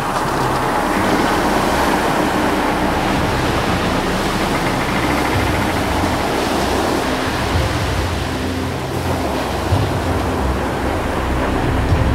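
Loud, steady rushing noise with a low rumble underneath, like surf.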